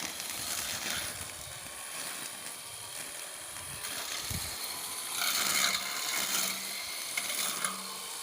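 Homemade solar-powered electric brush cutter running and cutting grass, a steady whir and hiss of blade on grass that grows louder about five seconds in. Its motor is being run at a low voltage.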